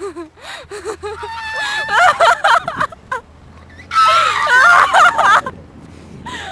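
A person screaming: short shrieks, then two loud, drawn-out screams about two and four seconds in.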